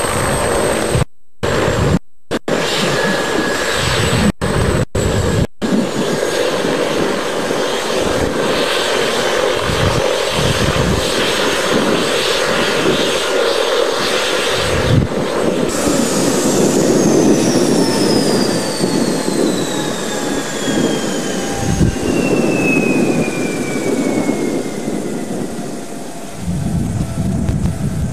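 Aerospatiale AS365N1 Dauphin twin-turbine helicopter running, with rotor noise and a high turbine whine. The sound drops out briefly several times in the first few seconds. From about halfway a whine falls steadily in pitch over about ten seconds.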